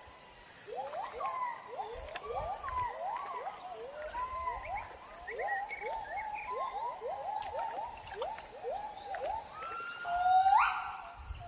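Gibbon song: a quick run of rising and falling whooping notes, about three a second, ending in a louder, longer swooping call near the end.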